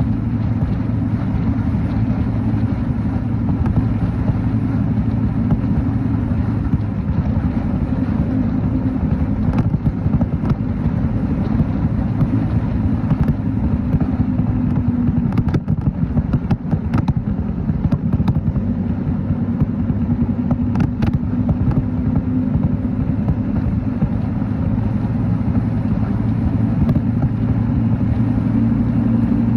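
Motorcycle engine running steadily while riding, mixed with road and wind noise, with a few short clicks in the middle.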